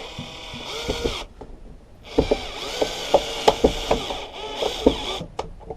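Power drill running in two bursts, about a second and then about three seconds, its pitch rising and falling, with clicks and knocks from the lawnmower's axle parts being fitted.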